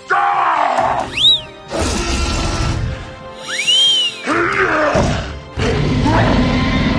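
Cartoon sound effects over background music: two quick whistling glides that rise and then fall, about a second in and again about three and a half seconds in, between stretches of low rumbling.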